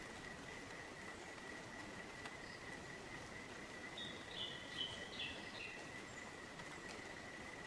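Bush ambience: a bird gives a brief run of short high notes, stepping downward, about four seconds in, over a steady thin high-pitched insect drone.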